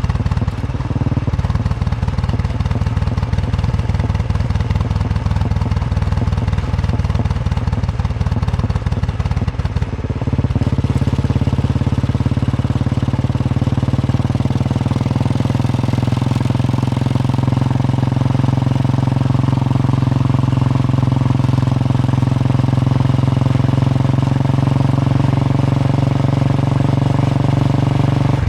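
Royal Enfield Bullet 350's single-cylinder engine running on the move: a low, pulsing thump for the first ten seconds or so, then a stronger, steadier note that climbs slowly in pitch as the bike pulls and gathers speed.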